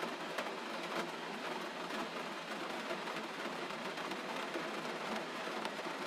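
Gentle rain falling steadily: an even hiss with scattered faint taps of drops.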